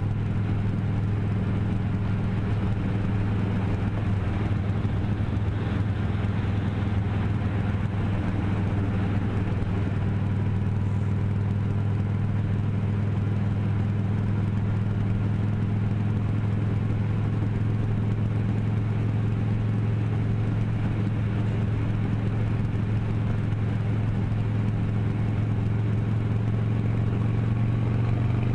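Motorcycle engine running at a steady speed while riding, a low steady drone with road and wind noise over it, its pitch rising a little near the end.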